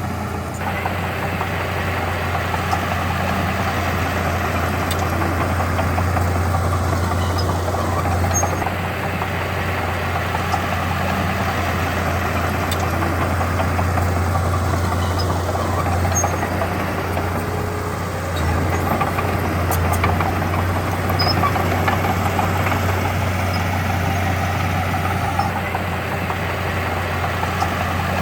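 Heavy diesel engine of earthmoving machinery running steadily with a deep low hum, easing slightly about two thirds of the way through.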